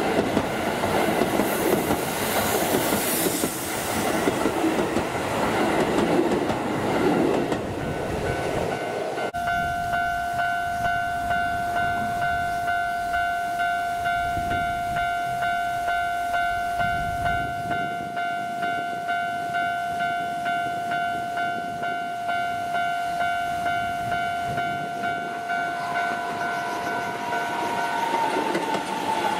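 A Keisei 3000-series electric train runs past on the rails for the first nine seconds or so. Then a steady, evenly pulsing ringing alarm of the kind a level crossing bell gives starts suddenly and runs until near the end, while the next train approaches. In the last few seconds another train passes close, with a slowly falling whine.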